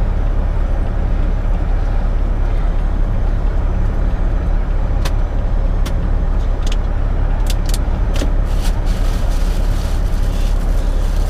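Steady low rumble of an idling semi-truck engine, with a handful of sharp clicks in the second half.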